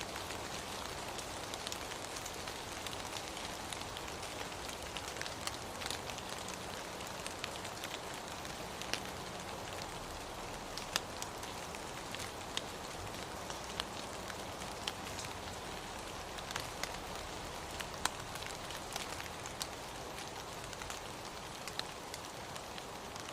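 Steady rain, a constant hiss with scattered sharp drips and taps of drops landing close by.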